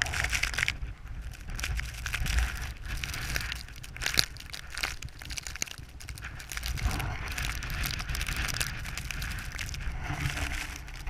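Blizzard wind buffeting the microphone in a steady low rumble, with irregular crunching of footsteps in snow.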